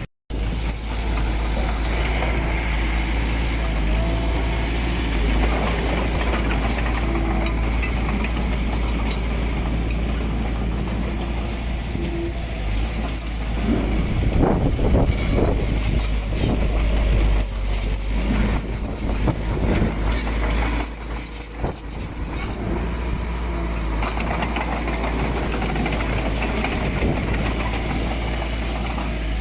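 Diesel engine of heavy earthmoving machinery running steadily with a deep rumble. Intermittent clanking and rattling come through in the middle.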